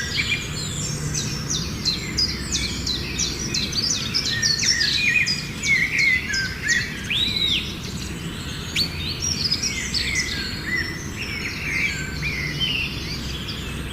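Many small birds chirping at once: a dense chorus of short, overlapping chirps and quick downward-sweeping calls that never lets up, over a low steady background hum.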